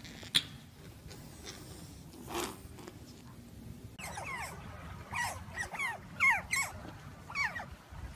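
A group of otters chirping: many short, high squeaks, each dropping in pitch, coming several a second from about halfway through. Before that there is only a faint background with a single click near the start.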